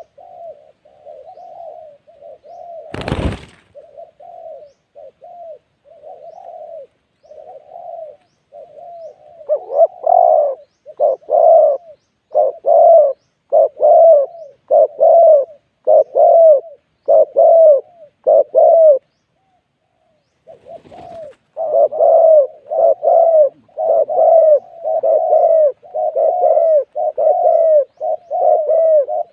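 Spotted dove cooing in repeated phrases, soft at first and then loud and close from about ten seconds in, with a brief pause around twenty seconds. A single sharp knock about three seconds in.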